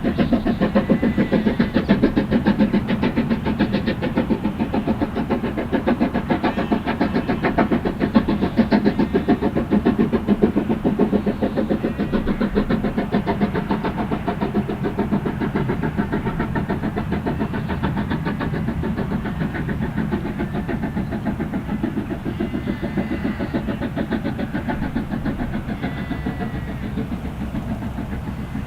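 LMS steam locomotive working hard up a 1 in 75 gradient: a rapid, steady beat of exhaust chuffs that fades gradually as it draws away.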